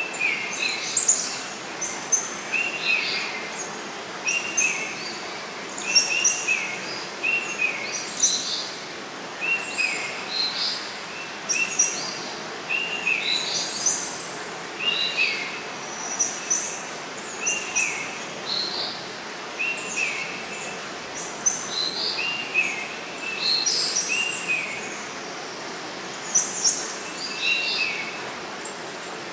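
Birds chirping over a steady faint hiss. The chirps are short, come about once or twice a second, and fall into a lower set and a higher set that trade back and forth.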